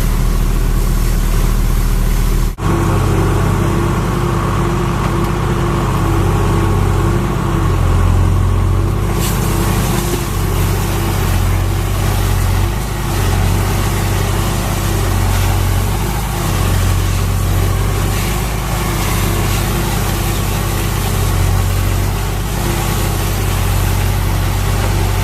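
Fire truck diesel engine running steadily at idle, with a brief drop-out about two and a half seconds in.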